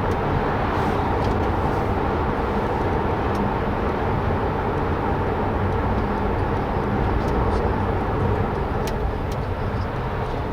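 Steady cabin noise of a Mercedes-AMG C43 cruising at an even pace: road and tyre rumble with its twin-turbo V6 engine running underneath, with no revving.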